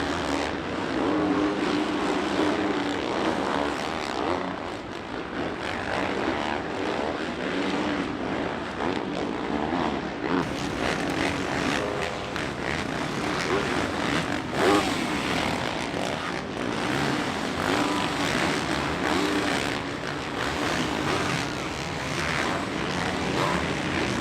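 Several supercross dirt bikes riding the track together, their engines revving up and dropping in pitch over and over as they work through the corners and jumps.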